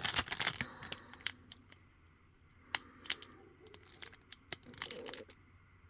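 Foil card-pack wrapper being handled and crinkled: a busy run of crackling at first, then scattered sharp crinkles that stop about five seconds in.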